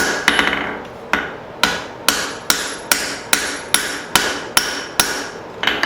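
Blacksmith's hand hammer striking hot leaf-spring steel on an anvil while forging the taper of a cross peen hammer head: about a dozen ringing blows at an even pace of roughly two a second.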